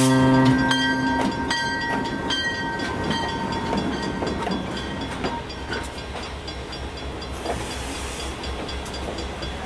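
Diesel train sound: a chord horn cuts off about half a second in, followed by a regular clicking of wheels over rail joints, a little over one click a second, fading as the train moves off. A short hiss comes near the end.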